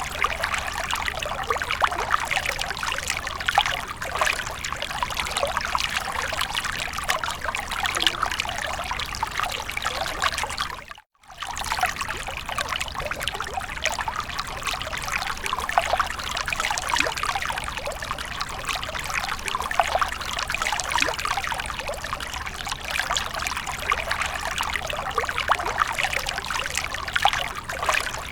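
Water fountain trickling and splashing steadily. It cuts out for a moment about eleven seconds in.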